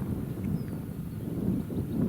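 Wind buffeting the microphone: an irregular low rumble outdoors on open lake ice.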